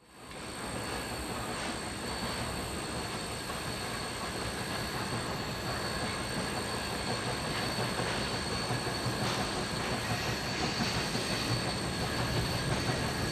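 Steam passenger train behind a 2-8-2 Mikado locomotive rolling on the rails, a steady rumble of wheels and cars that slowly grows louder as it approaches.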